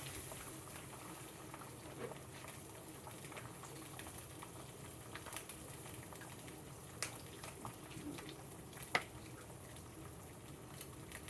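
Faint, steady sizzle of a burger patty frying in a hot pan on an electric stove, with a few light clicks.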